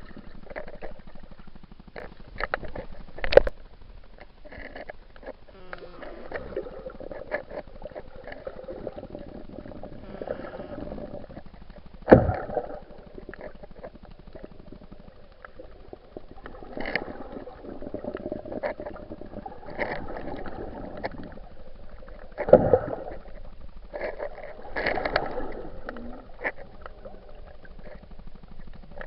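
Muffled water sloshing and gurgling as picked up by an underwater action camera while snorkelling, swelling and fading. Three sharp knocks stand out, about 3, 12 and 22 seconds in.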